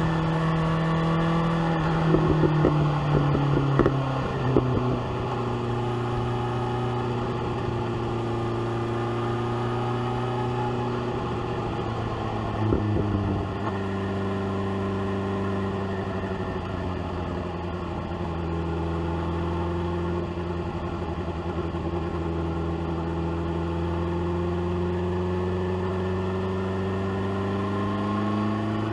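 BMW S1000R's inline-four engine heard from the rider's seat: engine speed drops in the first few seconds with crackling pops from the exhaust on the overrun, a quick blip of the revs comes about halfway through, then it runs steadily at lower revs and pulls up gradually near the end.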